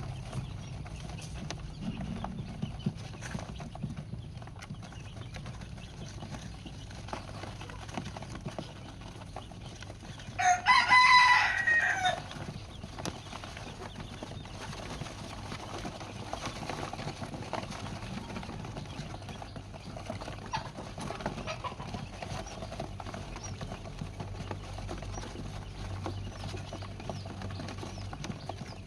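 A rooster crows once about ten seconds in, a single call lasting about a second and a half; the rest is a low, steady background.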